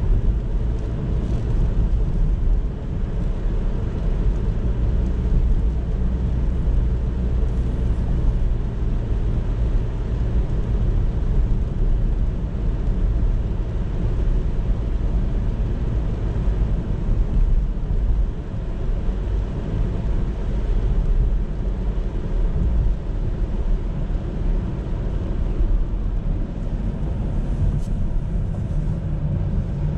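Car driving along a city road: a steady low rumble of tyres and engine with no sudden events.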